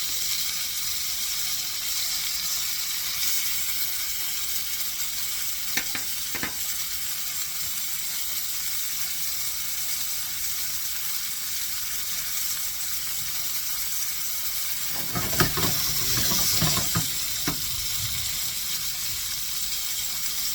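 Chicken breasts frying in oil in a hot skillet, a steady sizzling hiss. Two sharp clicks come about six seconds in, and a louder run of knocks and scraping in the pan comes about fifteen seconds in.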